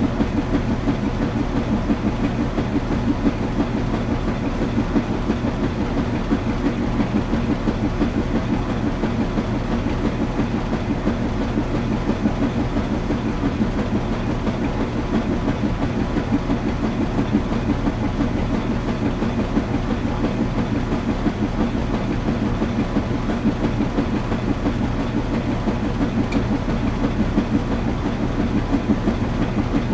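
Washing machine running steadily: a constant low hum under a fast, even churning rhythm.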